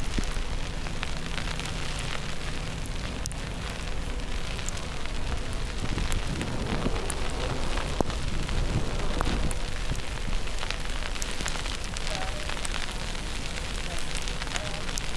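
Outdoor snowstorm ambience: a steady wash of noise with a low wind rumble and scattered small ticks, swelling a little in the middle.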